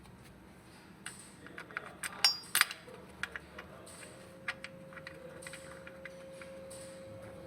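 Metal hand tools and parts clinking and knocking during engine work: a run of sharp clicks, with two loud ringing metallic clinks about two seconds in, over a steady low hum. A faint steady tone comes in about four seconds in.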